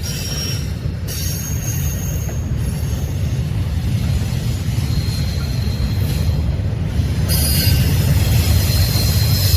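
A train passing with a steady heavy rumble of wheels on rail, overlaid by thin high-pitched wheel squeals that come and go, once about a second in and again from about seven seconds on.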